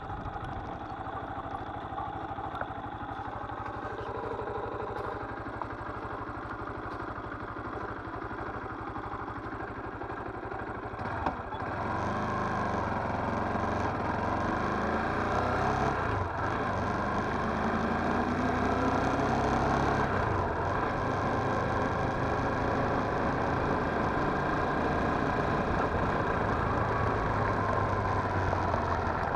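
Viper R2 motorcycle engine running at idle. About eleven seconds in there is a click and it gets louder, the engine note rising and falling as it revs.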